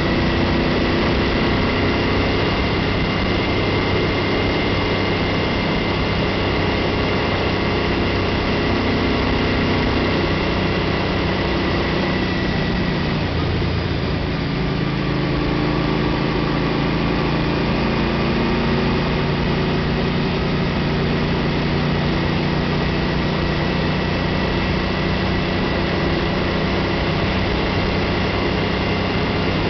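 2005 Suzuki C50T's V-twin engine running steadily under way, with wind rush over the microphone. About 13 seconds in the engine note changes pitch.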